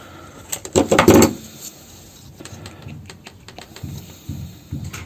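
Handling noise from small hardware parts: a brief loud clatter about a second in, then scattered light clicks and taps.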